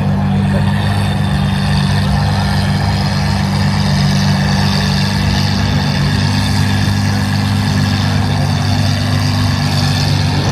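Car engine idling with a steady low drone.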